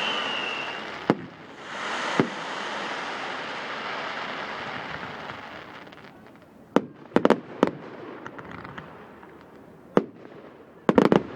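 Fireworks going off: a falling whistle dies away in the first second, then a loud hissing crackle with a couple of sharp bangs, followed by clusters of sharp bangs in quick succession in the second half.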